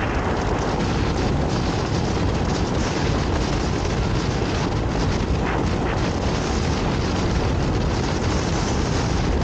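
Steady engine and wind noise of a motorcycle being ridden.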